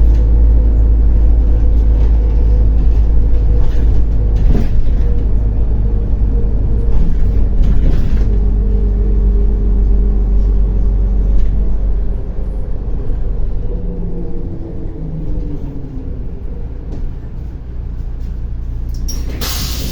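MAZ-105 articulated city bus's diesel engine and drivetrain rumbling under way, heard from inside the cabin; about twelve seconds in the engine note falls and quietens as the bus eases off. A short hiss sounds near the end.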